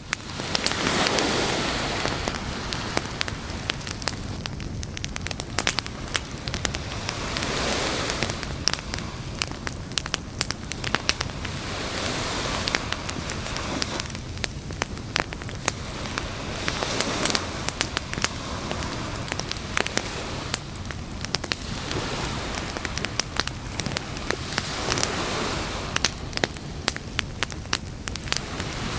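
Campfire crackling: a dense run of sharp pops and snaps over a rushing noise that swells and fades every few seconds.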